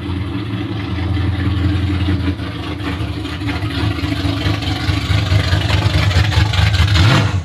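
A classic car's engine rumbling steadily at low speed as the car rolls in, revving up briefly near the end.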